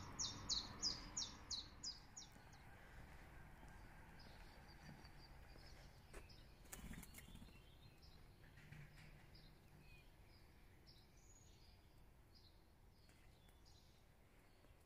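A songbird singing a quick series of about eight high, falling notes, roughly three a second, which ends about two seconds in. After that come only faint, scattered bird calls.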